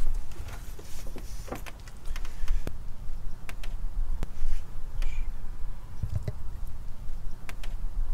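Scattered light clicks and knocks over a steady low rumble.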